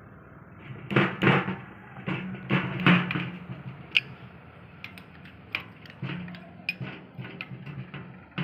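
Irregular metallic knocks and clicks of tools and parts being handled, loudest in a cluster about a second in, over a steady low hum.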